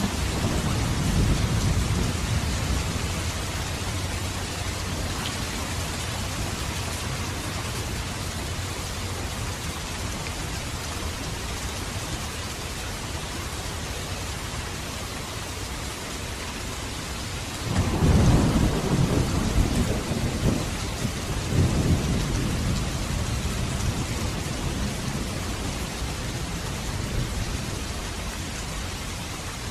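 Steady rain falling, with rolls of thunder: a low rumble dying away over the first few seconds, then a louder roll about two-thirds of the way through that swells again a few seconds later.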